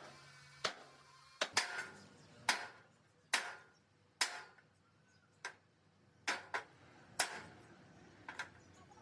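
Hammer blows on steel: about a dozen sharp, unevenly spaced strikes, each ringing briefly.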